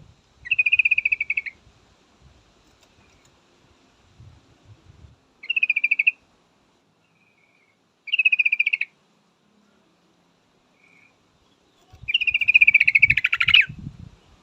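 Yellow-vented bulbul (trucukan) calling in four quick chattering bursts, the last one longest. These are the calls of a female, used to draw a male into answering.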